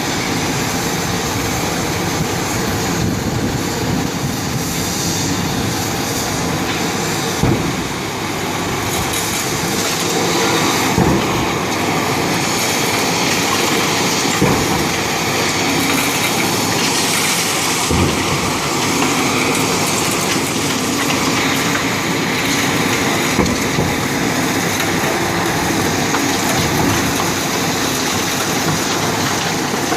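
Heavy demolition machinery running steadily, with a few separate thuds and knocks of debris being struck or falling.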